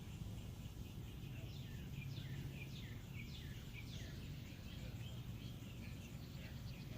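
Birds chirping: many short, quick falling chirps, faint, over a steady low background rumble.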